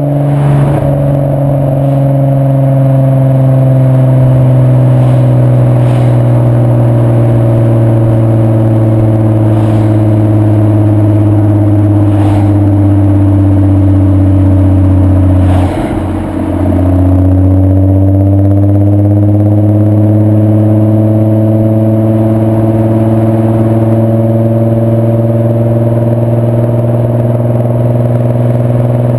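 VW 2.8 VR6 24V six-cylinder engine through a non-resonated Milltek exhaust, running under way: its note slowly falls, breaks briefly with a dip in level about sixteen seconds in, then slowly climbs again. A few faint knocks are heard over it.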